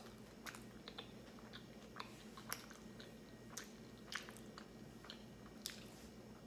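Close-miked chewing of a mouthful of vegetable-topped pizza: faint, irregular wet mouth clicks and smacks, a couple of them louder, about two and a half and five and a half seconds in.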